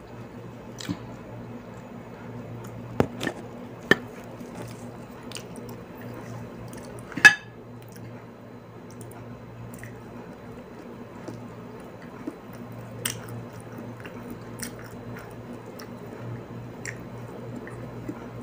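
Close-miked eating sounds: a person chewing and smacking food taken by hand, with scattered small clicks and one sharper click about seven seconds in, over a steady low hum.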